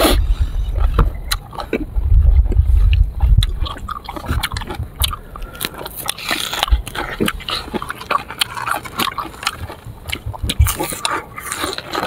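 A person biting into and chewing sour fruit close to the microphone: wet mouth clicks and crunches come irregularly all through. Heavy low rumbles sit under them at the start and again from about two to three and a half seconds in.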